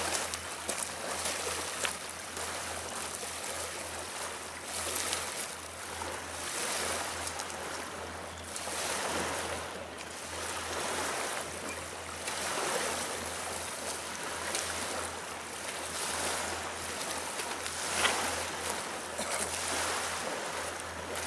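Danube river water washing against the stony bank in repeated surges that swell and fade every couple of seconds, over a faint steady low hum.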